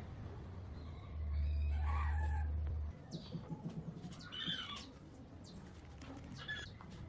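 A low, steady machine hum that cuts off suddenly about three seconds in, with a few short bird calls.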